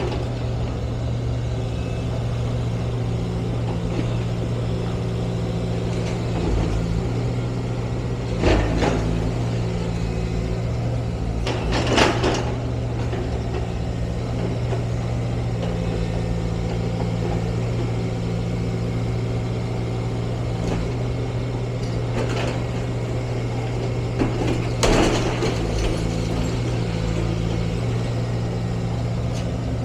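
A heavy diesel engine running steadily, with loud crashes about 8 and 12 seconds in and again near 25 seconds, typical of masonry coming down during demolition.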